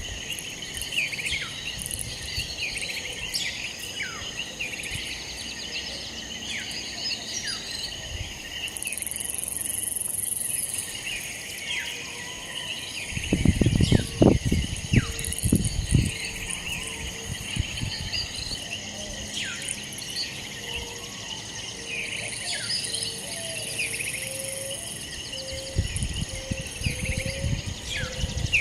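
An outdoor night-time-style chorus of insects, with a steady high trilling and many short falling chirps over it. Loud low thumps or rumbles come in about halfway through and again near the end.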